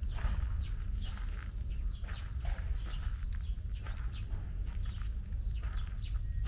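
Small birds chirping repeatedly in quick, short downward-sweeping notes, over a steady low rumble.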